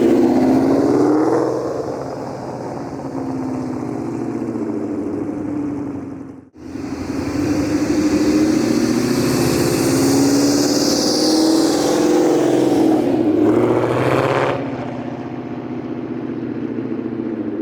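Supercharged 2014 Mustang GT's 5.0 V8 running through Corsa long-tube headers, X-pipe and Corsa Xtreme quad-tip exhaust, loud under acceleration. The revs fall away in the first couple of seconds, and the sound cuts out briefly about six and a half seconds in. The engine then pulls again with rising pitch and a high whine climbing with it, and settles to a quieter steady drone about fifteen seconds in.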